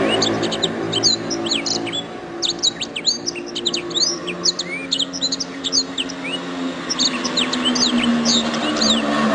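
Domestic canary singing: a fast, continuous run of high chirps, slurred notes and trills, over a steady low hum.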